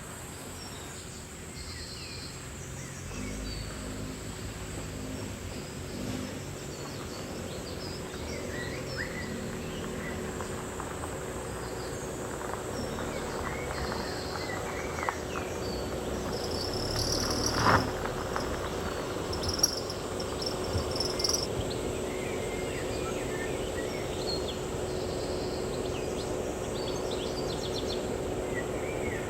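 Forest ambience: a steady hiss with a faint steady hum beneath, scattered short bird chirps and insect calls, and one sharp knock about eighteen seconds in.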